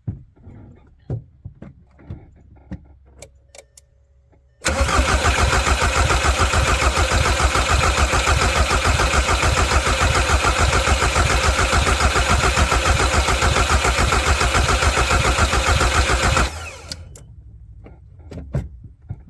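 Volkswagen Jetta TDI diesel engine cranking on the starter for about twelve seconds without firing, its injector lines cracked loose to bleed air out after a fuel filter change. The cranking cuts off suddenly, and a few light clicks and knocks come before it.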